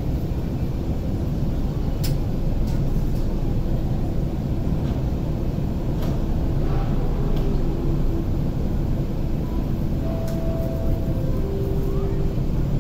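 Steady low hum inside a standing MTR SP1900 (IKK-train) electric multiple unit, with a sharp click about two seconds in and two brief faint tones near the end.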